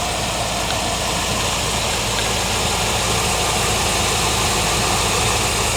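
1980 Corvette's rebuilt 350 small-block V8 idling steadily.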